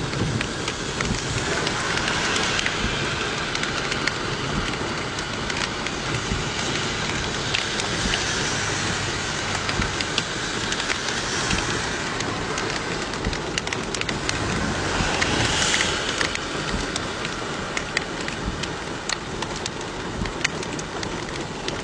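Steady heavy rain falling, with many individual drops ticking on hard surfaces.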